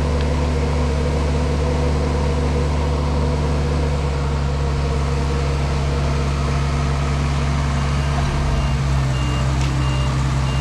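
Heavy diesel engines of a backhoe and a sand truck running steadily under load as the stuck truck is pulled free. About eight seconds in, the engine note shifts and a reversing alarm starts beeping at a steady pace.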